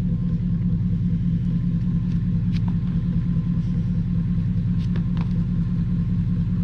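1975 Chevy C20 pickup's engine idling steadily, a low even rumble with a few faint ticks over it.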